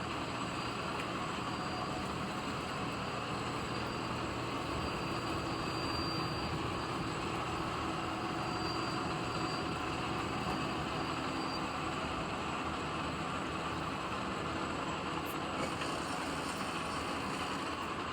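Metal lathe running steadily, a constant machine hum with a few steady whining tones, and a couple of light clicks near the end.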